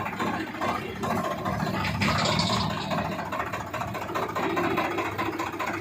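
Swaraj 960 tractor's diesel engine running steadily.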